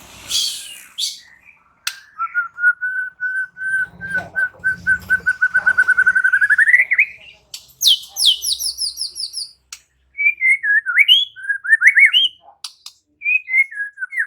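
White-rumped shama singing. A run of repeated whistled notes speeds up and climbs in pitch, then comes a quick burst of high, falling notes, then a string of varied warbling phrases.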